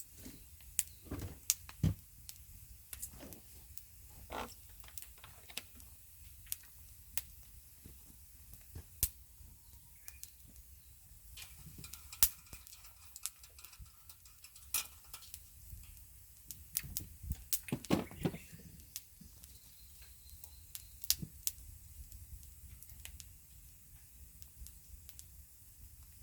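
Sporadic light clicks and knocks at uneven intervals, with a short cluster of them about eighteen seconds in, over quiet outdoor ambience with a few faint short chirps.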